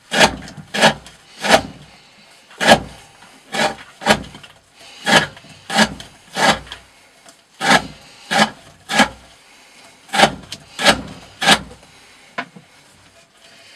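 D2-steel knife slicing through 20 mm rope, one short cut at a time, about sixteen cuts at an uneven pace, part of a rope-cutting edge-retention test.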